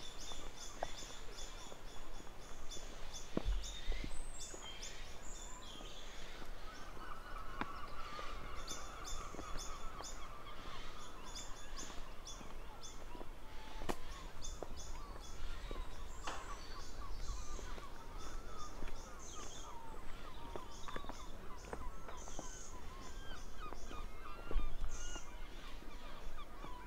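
Several birds calling: rapid runs of high, thin chirps repeating throughout, with many shorter, lower calls among them.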